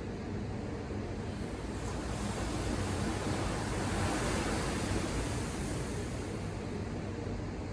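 Ocean surf: a wave's hiss swells from about two seconds in, peaks midway and fades away near the end, over a steady low rumble.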